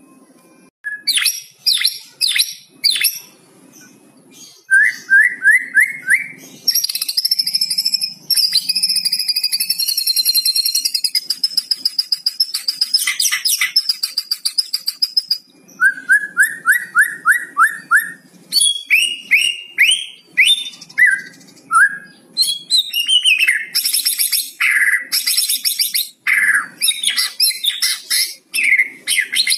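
White-rumped shama (murai batu) singing a varied song. It has quick runs of repeated falling notes, a long high whistle held for several seconds, and fast harsh rattling 'kretekan' notes.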